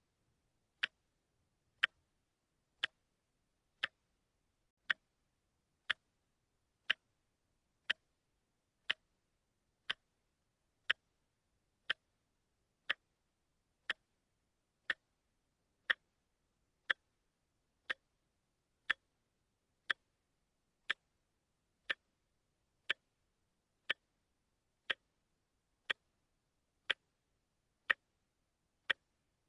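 Watch ticking steadily, one sharp tick about every second with silence in between.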